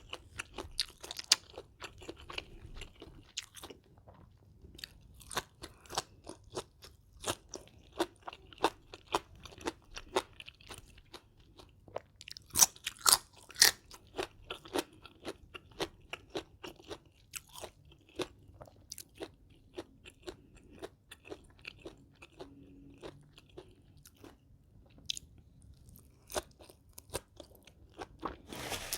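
A person chewing crunchy food close to the microphone: a steady run of crisp crunches and wet mouth clicks, several a second, louder about halfway through.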